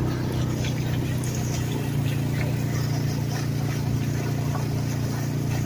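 Polaris Sportsman ATV engine running steadily at low speed, with faint scattered ticks and rattles.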